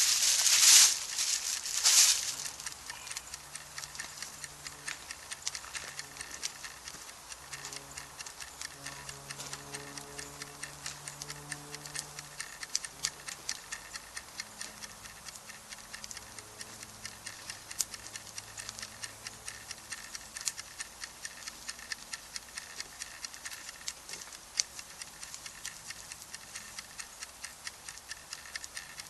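Wood campfire crackling, with many small irregular pops and ticks. A louder rustling, noisy burst comes in the first two seconds.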